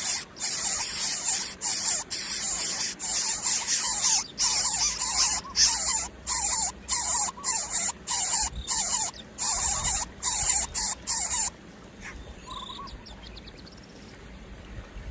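Young predator chicks making a rapid series of short hissing bursts, about two to three a second, with faint squeaks mixed in. The hissing stops about eleven and a half seconds in, leaving a few faint chirps.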